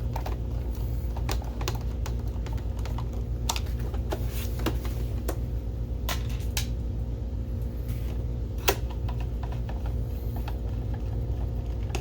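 Irregular small clicks and taps of screws being driven back into the projector's bottom casing, over a steady low hum.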